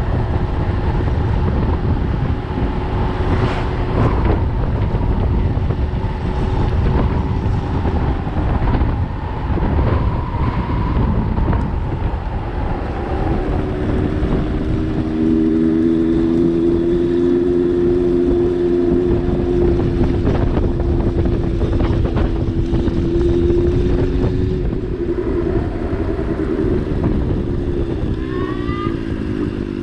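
A vehicle engine running under a heavy low rumble, its steady hum shifting in pitch about halfway through and gliding again near the end as the speed changes.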